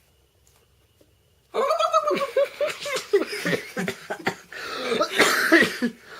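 A man imitating a turkey's gobble with his voice: a rapid, warbling run of short throaty yelps starting about a second and a half in, turning raspy near the end.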